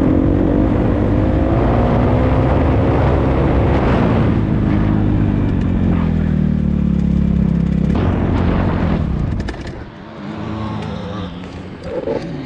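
Dirt bike engine running, its revs rising and falling, until the sound drops away about ten seconds in, followed by a few clicks and knocks.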